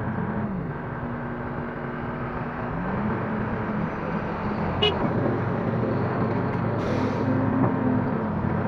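Link-Belt 145X3E hydraulic excavator's diesel engine running under load as it digs and loads, its pitch dipping and rising as the hydraulics pull on it. A sharp click comes near the middle and a short hiss about two seconds later.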